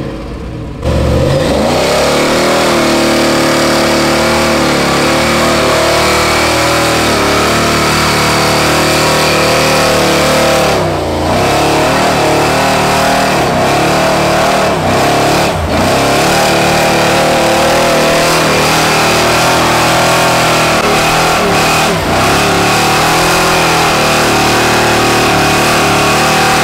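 LS2-swapped Chevy truck's V8 held at high revs through a long run of donuts, with brief drops in revs about 11, 15 and 22 seconds in.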